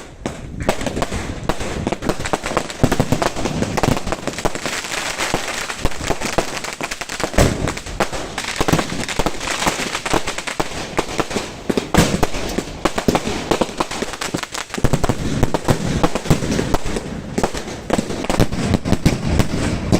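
Fireworks display: a dense, continuous crackle of bursts and bangs, with louder single booms standing out now and then.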